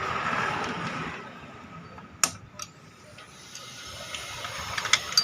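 A hissing noise that fades out within the first second, then two sharp metallic clinks a little over two seconds in and a quick cluster of clinks near the end: hand tools and engine parts being handled during motorcycle engine work.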